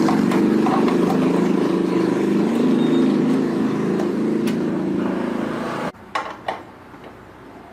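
A motor running with a loud, steady hum that cuts off suddenly about six seconds in, followed by a few light clicks.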